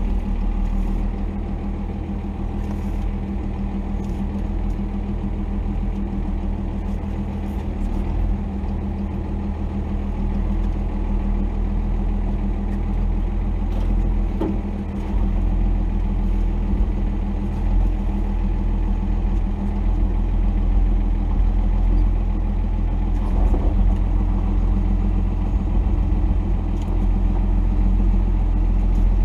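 1990 Dodge D250's Cummins 5.9-litre inline-six turbodiesel running steadily as a low drone, getting a little louder about halfway through.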